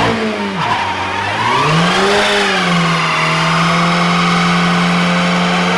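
Car engine revved hard twice, its pitch rising and dropping, then held at a steady high rev for the rest of the time.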